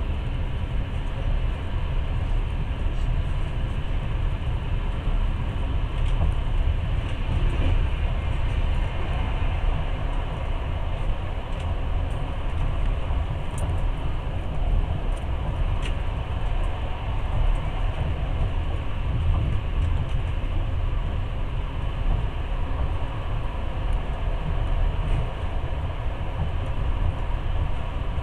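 Passenger train running steadily at speed, heard from inside the carriage: a constant low rumble of wheels on the rails with a couple of faint clicks.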